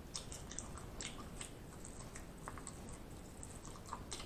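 Chewing a honey BBQ chicken wing: faint, scattered wet clicks and smacks of mouth and sticky sauce.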